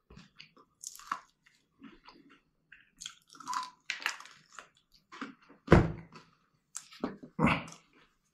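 Close-miked chewing and crunching of crispy fried chicken, with short crackly bites and two louder thumps in the second half.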